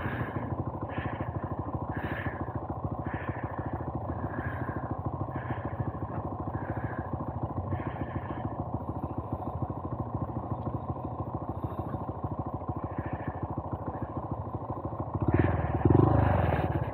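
Honda Monkey 125's single-cylinder four-stroke engine idling steadily while the bike stands still, with the sound swelling briefly near the end.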